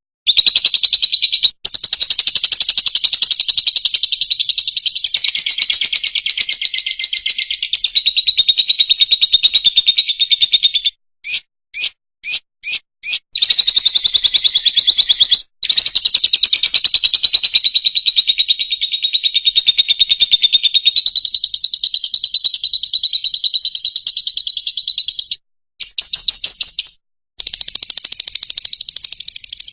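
Fischer's lovebird singing: long runs of rapid, high-pitched chattering trill, broken partway through by five short separate chirps and by a few brief pauses.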